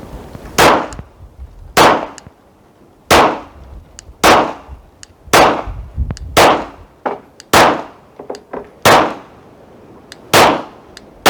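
Slow, steady pistol fire, about nine shots a little over a second apart, from a 9mm Glock 17 being zeroed at a target. Fainter sharp clicks sound between some of the shots.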